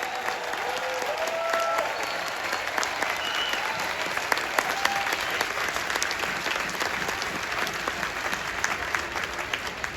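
Large stadium crowd applauding steadily, with a few voices calling out in the first two seconds.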